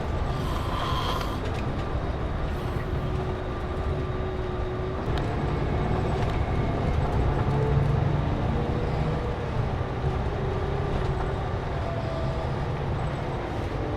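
Steady low rumble of a Scania K410CB coach running, with faint steady whines above it and a brief hiss about a second in.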